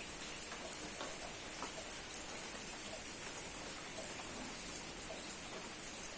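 Steady rain falling, with scattered drips ticking and one sharper tap about two seconds in.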